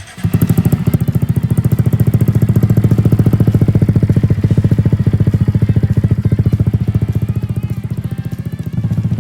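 Honda Monkey 125's single-cylinder four-stroke engine idling, a steady, even beat of about ten exhaust pulses a second; the tone shifts slightly near the end.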